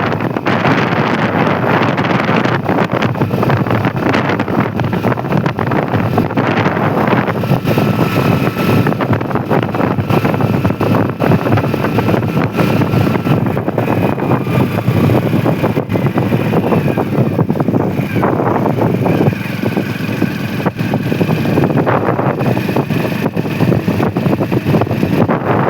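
Wind rushing over the microphone with a motorcycle running underneath, steady and loud while riding; a faint whine comes and goes partway through.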